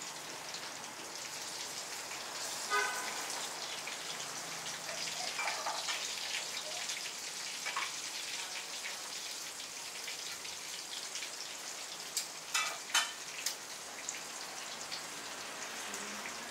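Steady hiss like falling rain, with a few brief, sharp higher sounds, most of them together about twelve to thirteen seconds in.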